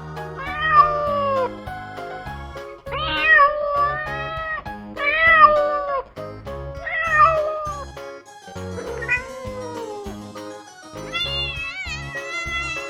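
A cat meowing over and over, about six drawn-out meows, the last one wavering in pitch, over background music.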